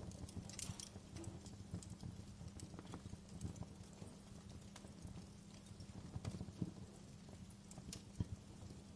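Wood fire crackling in a fireplace: a faint low rumble of flames with a dense, irregular scatter of small crackles and sharper pops, a few louder snaps among them, one near the end.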